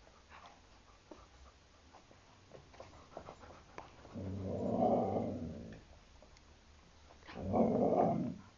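A pet dog 'talking' in drawn-out, howl-like vocal calls: one about four seconds in lasting over a second, and a shorter one near the end, with a few faint clicks before them.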